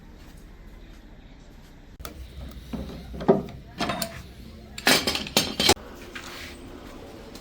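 Hard objects clinking and knocking against each other, about five sharp strikes in the second half, over a low workshop hum.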